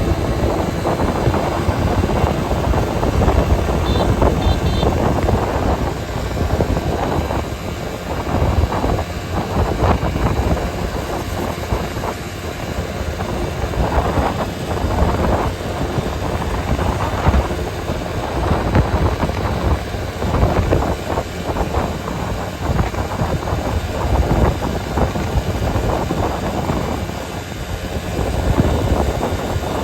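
Vehicle driving along a road: a continuous rumble of engine and road noise, broken by frequent short jolts and knocks.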